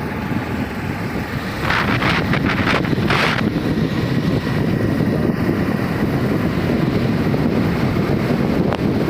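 Wind buffeting the microphone: a steady low rumble, with a few brief hissing bursts around two to three seconds in.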